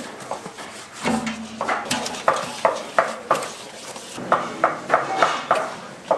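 Kitchen utensils clattering rhythmically against cookware, about three strikes a second, with a short pause partway through.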